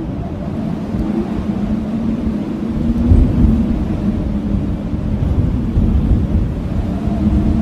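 Strong blizzard wind howling: a deep rumble under a low, wavering moan, with a stronger gust about three seconds in.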